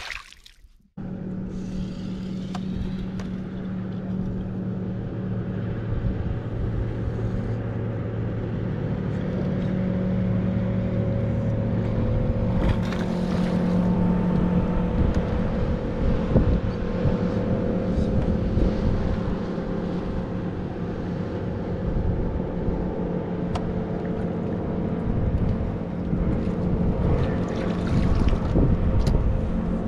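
Boat's outboard motor running steadily underway. It starts about a second in, after a brief silence.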